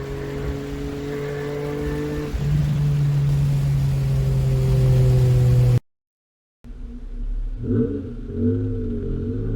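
Honda J32A3 3.2-litre V6 VTEC engine with headers and a 3-inch exhaust, running under way with a steady note that drops in pitch and gets louder about two and a half seconds in. The sound cuts out abruptly for under a second and returns with a wavering pitch.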